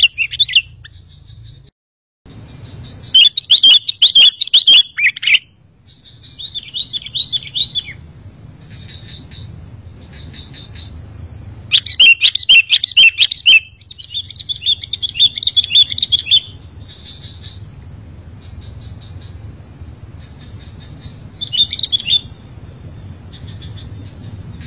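Sooty-headed bulbul (kutilang) singing in several bursts of fast, chattering phrases a few seconds apart. A faint steady high whine and low hum run underneath, and the sound drops out completely for a moment about two seconds in.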